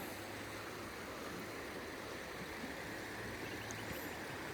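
Faint, steady rushing background noise with a low hum underneath and no distinct events.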